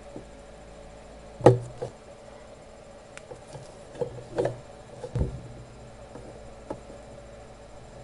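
Light knocks and clicks of small tools being handled and set down on a bench, the loudest about one and a half seconds in and a few more between four and five seconds in, over a steady faint hum.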